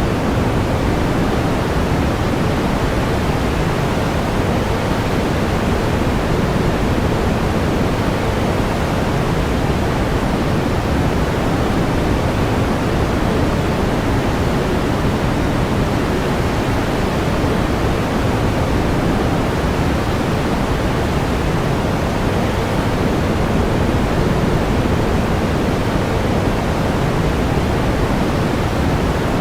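Steady pink noise: an even, unchanging hiss weighted toward the low end.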